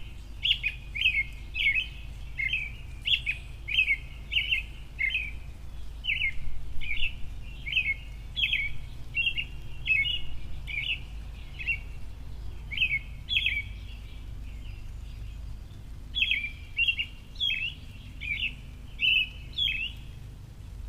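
A bird chirping over and over, short sharp chirps about one or two a second, with a pause of a couple of seconds past the middle, over a steady low hum.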